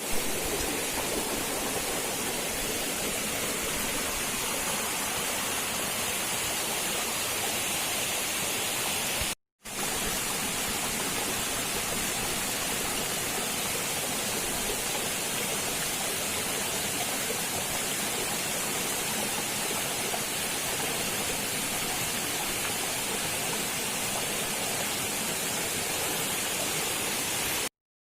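Waterfall: a steady rush of falling water. It cuts out for a moment about a third of the way in and stops abruptly just before the end.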